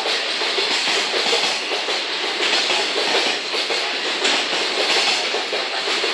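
Koki container flatcars of a freight train rolling past, their wheels clattering steadily over the rail joints.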